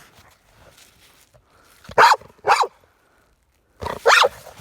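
American Staffordshire terrier barking three times in short, sharp barks, two close together about two seconds in and one more near the end.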